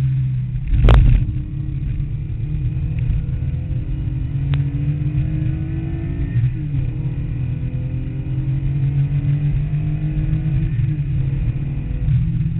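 Air-cooled flat-six engine of a Porsche 911 with a 3.2-litre motor, heard from inside the cabin, pulling up through the revs under acceleration. Its pitch drops at upshifts about six and eleven seconds in. A loud thump comes about a second in.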